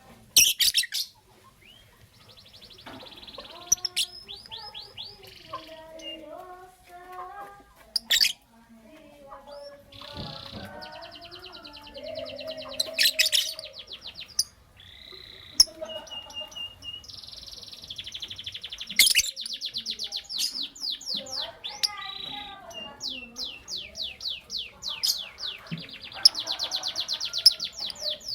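Lovebirds chirping: fast runs of high, rapidly repeated chirps broken by several sharp, shrill calls, with softer chattering underneath.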